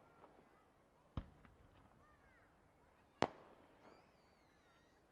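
Fireworks shells bursting: two sharp bangs about two seconds apart, with a few fainter pops between them.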